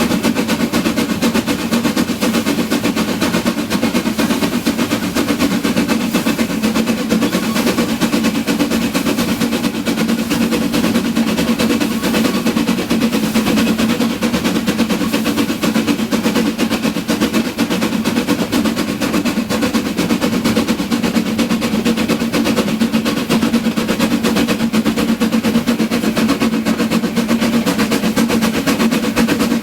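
Narrow-gauge train running along, a steady, loud, rapid rattling clatter with an even low rumble beneath it.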